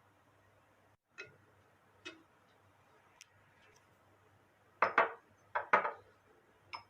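Kitchen dishes and utensils being handled: a few light clinking taps, then a cluster of louder knocks and clatters about five to six seconds in, and one last tap near the end.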